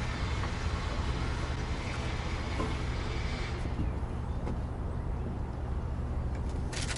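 Steady low mechanical drone, like an engine or machinery running, with a hiss over it that falls away about three and a half seconds in.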